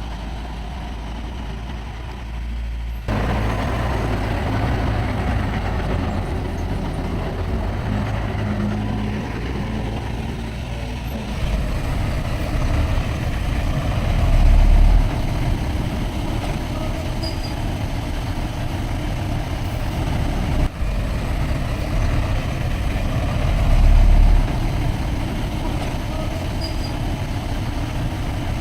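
Heavy diesel earthmoving machinery running steadily, with the engine swelling briefly louder twice, as under load.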